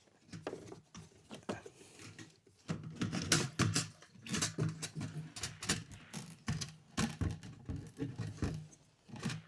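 Repeated light tapping on the metal lock ring that holds the fuel pump in a 2009 Ford Escape's gas tank, knocking it around to turn it loose. The taps are irregular, a few scattered at first, then coming quickly from about three seconds in.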